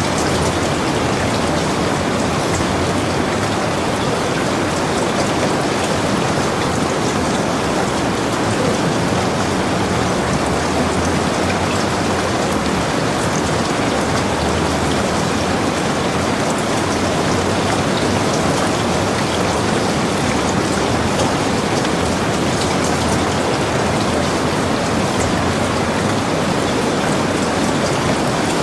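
Heavy rain falling steadily on a log cabin, a dense even hiss with countless fine drop patters and no let-up.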